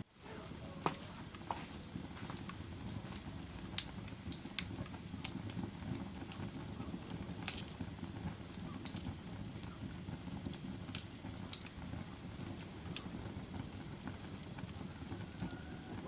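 Wood fire burning: a steady low rumble of flames with sharp crackles and pops scattered irregularly through it, the loudest about four and seven and a half seconds in.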